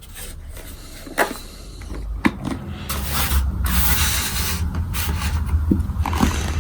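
Handling noises from a motorcycle helmet and its parts being moved about on a work surface: a few sharp plastic clicks and knocks and a rustling scrape about halfway through. A low hum rises underneath from about three seconds in.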